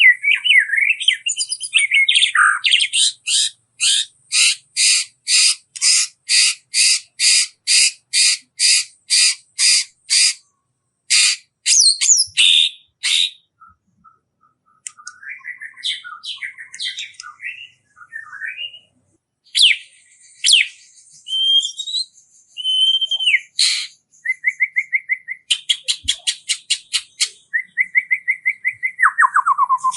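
Small songbirds calling: a long string of sharp, evenly repeated high notes about two a second, then varied chirps, short fast trills and a call that falls in pitch near the end.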